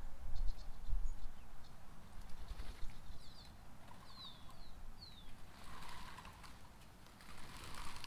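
Small birds chirping: a handful of short, falling chirps in the middle, over an uneven low rumble and a few scattered light ticks.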